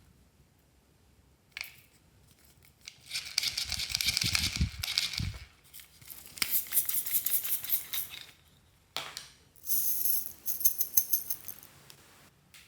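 Small hard bits rattling and clattering as they are poured or shaken into a container, in three bursts of a few seconds each, with a couple of dull thuds during the first.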